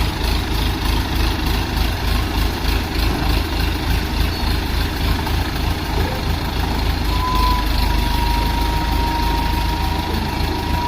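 Heavy diesel engine of a construction machine idling with a steady pulsing low rumble. About seven seconds in, a thin steady high-pitched tone joins it and holds.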